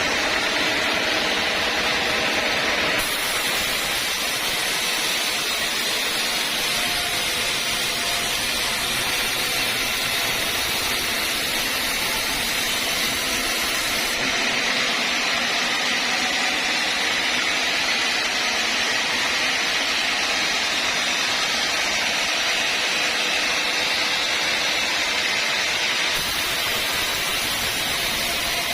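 Sawmill saw running steadily, a continuous loud machine noise with a hiss; the high hiss changes abruptly a few times.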